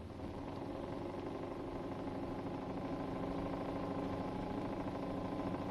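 A steady, engine-like mechanical hum under old film-soundtrack hiss, ending in a sharp click.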